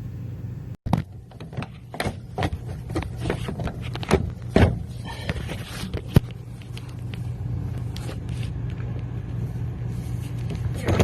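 Irregular knocks, scrapes and clatter, densest in the first six seconds, as the old shower drain is worked on, over a steady low hum.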